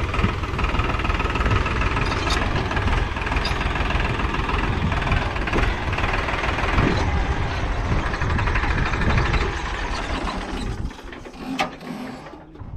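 Heavy diesel machinery engine running steadily with a knocking mechanical clatter. It fades away about ten seconds in, and a few sharp clicks follow.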